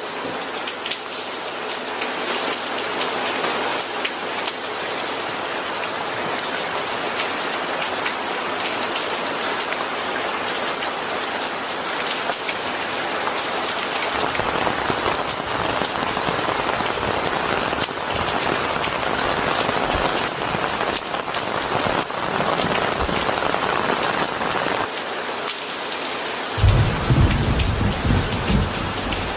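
Steady rain falling and pattering on surfaces. A low, rolling rumble of thunder comes in near the end.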